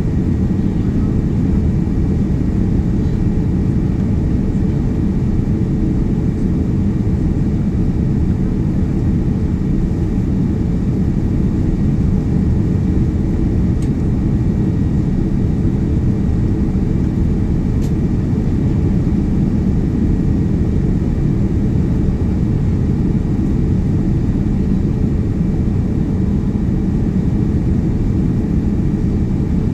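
Steady cabin noise inside a Boeing 787-9 airliner in flight: an even, loud rumble of engines and airflow with no changes.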